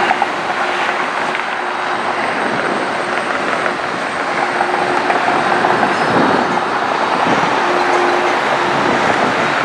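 Jet airliner engines running: a loud, steady rush of noise with a faint steady whine.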